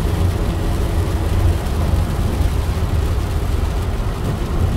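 Steady low road and engine rumble inside a moving car's cabin, heard while it drives through a thunderstorm.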